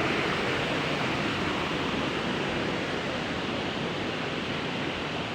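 Waterfall rushing steadily: a continuous roar of falling water.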